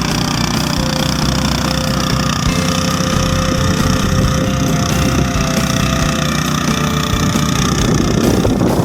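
Tractor engine running steadily while tilling soil.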